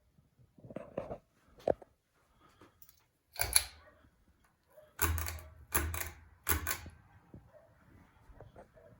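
A string of short clicks and knocks, the loudest about a third of the way in, then three evenly spaced knocks about a second apart.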